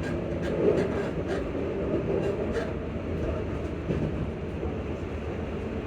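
ScotRail Class 334 electric multiple unit running at speed, heard from inside the carriage: a steady rumble with short clicks from the wheels on the rails about every two-thirds of a second.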